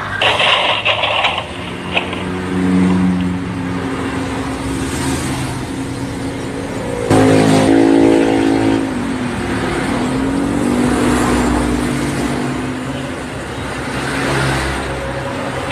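Motorcycle engines revving and passing. The loudest pass comes about seven seconds in, its pitch dipping and then climbing again.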